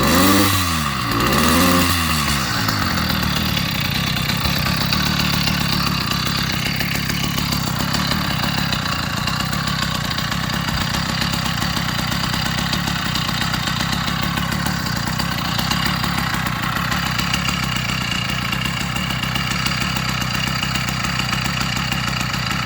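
80cc two-stroke motorised-bicycle engine blipped up and down twice, then settling into a steady idle about two and a half seconds in. It is running rich on a 25:1 fuel-oil mix.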